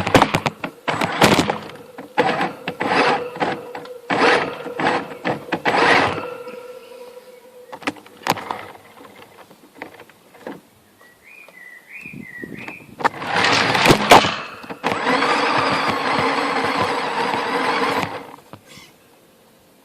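Radio-controlled Tamiya CC01 scale truck's electric motor and gears whining in a series of short throttle bursts, with the road tyres scrabbling for grip, then a pause with a few clicks. Near the end there is a louder burst and a steady run of about three seconds.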